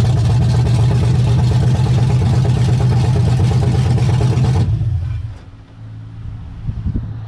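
Chevrolet ZZ4 350 small-block V8 crate engine in a C10 pickup, running with no exhaust system fitted, held at raised revs. It drops back to a lower, steady idle about five seconds in.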